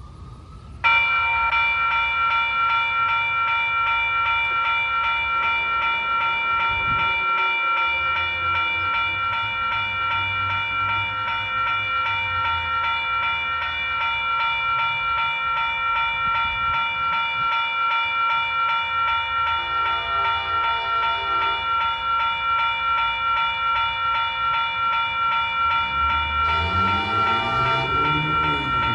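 Railroad grade-crossing warning bell ringing steadily, starting suddenly about a second in, over the low rumble of a train that grows louder near the end.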